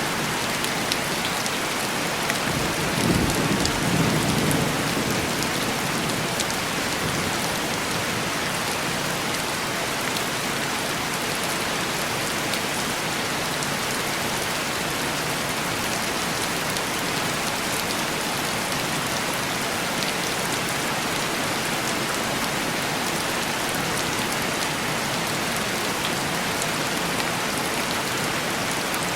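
Steady heavy rain pattering on window glass, with a short low rumble of thunder about three seconds in.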